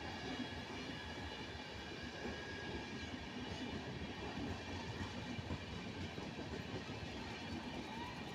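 Passenger express train's coaches rolling past on the track: a steady noise of steel wheels running over the rails.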